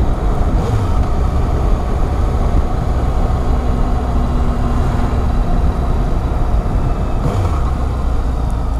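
Motorcycle riding on the road: steady engine and road noise with heavy wind rushing over the microphone.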